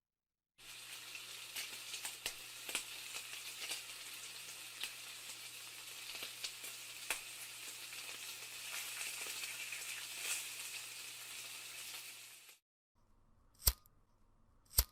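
Food frying in hot oil: a steady sizzle with scattered crackles and pops that stops about twelve seconds in. Two short, sharp clicks follow near the end.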